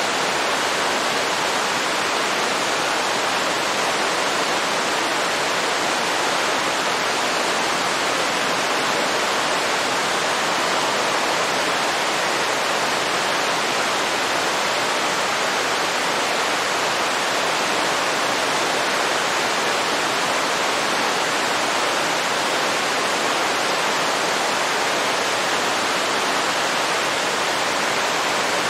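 Waterfall: steady rushing of falling water, an even hiss that does not change.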